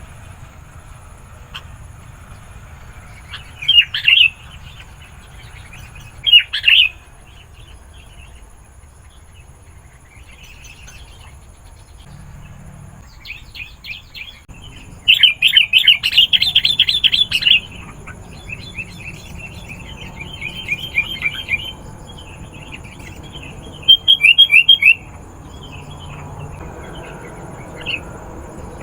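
Sooty-headed bulbul calling in loud bursts of quick chirps: two short bouts about 4 and 6.5 seconds in, a long fast chatter from about 15 to 18 seconds, softer chattering after it, and another loud burst around 24 seconds.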